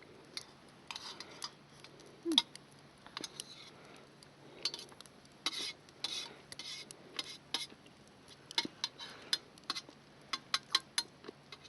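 Chopsticks clicking and scraping against a bowl or dish during eating, in scattered, irregular taps.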